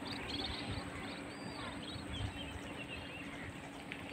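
Birds chirping over a steady hiss of outdoor background noise, the chirps mostly in the first couple of seconds.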